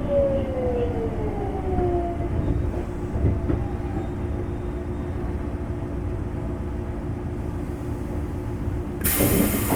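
Semboku Rapid Railway 5000 series car with a Hitachi GTO VVVF inverter braking to a stop: the inverter's whine falls in pitch over the first two seconds, then the car rolls quietly with a low rumble. About nine seconds in, a sudden loud hiss of air starts as the train halts at the platform.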